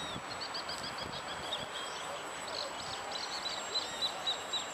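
Small birds chirping in quick, evenly repeated short notes, several a second, over a steady outdoor background noise, with a thin constant high-pitched tone throughout.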